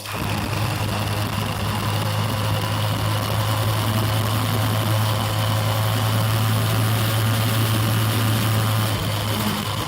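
Motorbike engine running at a steady speed, a loud low drone held at an even pitch, which starts and stops abruptly.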